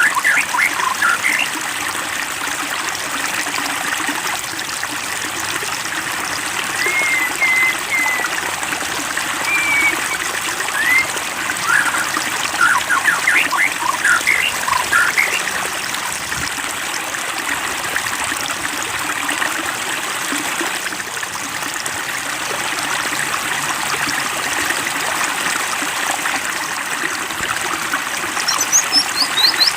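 Water trickling and splashing steadily, like a small stream or fountain. Short bird chirps and whistles break in now and then in the first half.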